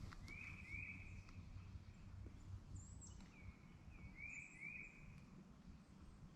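A songbird whistling short, clear, upslurred notes: a pair about half a second in and three more about three to four and a half seconds in, with a few faint high chips, over a low steady outdoor rumble.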